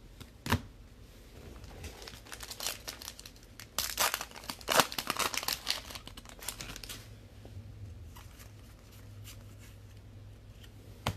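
A trading card pack's wrapper being torn open and crinkled by hand, with a dense run of crackling from about two to seven seconds in, and a sharp click near the start and another near the end.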